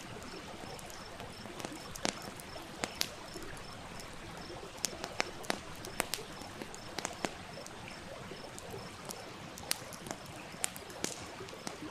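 Campfire crackling with irregular sharp pops and snaps over the steady rush of a stream. A faint, high chirp repeats evenly about three times a second throughout.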